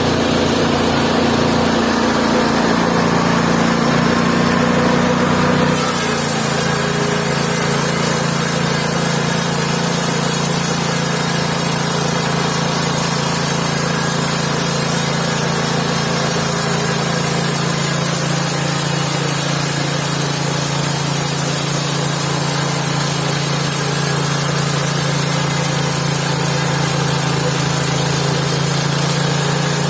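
Mobile band sawmill running steadily under engine power. About six seconds in, its note drops and a high hiss joins, typical of the band blade working through a log.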